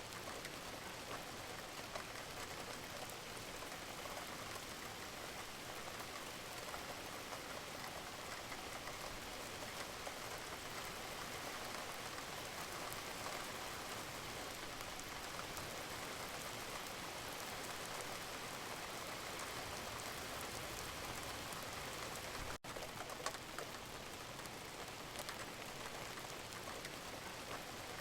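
Steady rain falling on a surface, an even hiss flecked with small drop ticks. The sound cuts out for a split second about two-thirds of the way through.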